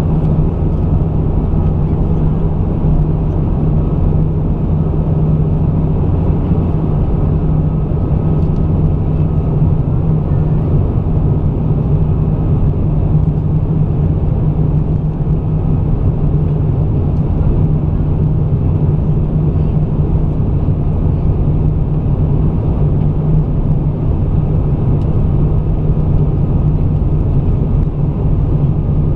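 Steady cabin noise of an Airbus A320 on approach: engine and airflow noise with a constant low drone.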